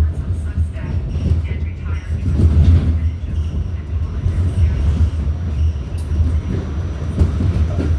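R46 subway car running along the track, heard from inside the car: a steady low rumble. Faint voices are heard over it, and a thin high whine comes in about six seconds in.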